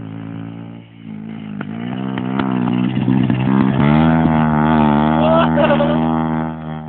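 Motorcycle engine running, getting louder over the first few seconds as it comes on the throttle, holding a strong steady note, then easing off near the end.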